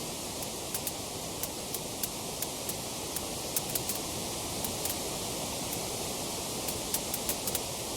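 Wood fire crackling: a steady soft hiss with irregular sharp crackles and pops, two or three a second, thinning out for a moment about two-thirds of the way through.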